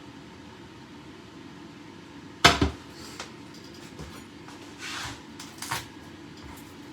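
Kitchen handling noise: one sharp knock about two and a half seconds in, like a cupboard door or a utensil set down hard, followed by a few lighter clicks and two short brushing sounds.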